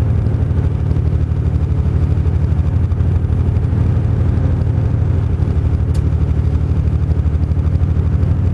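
Truck engine running steadily with a constant low rumble.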